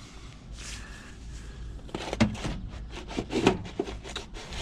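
Knocks and scrapes of hard objects being handled and shifted, several a second, starting about two seconds in after a quieter stretch of rubbing.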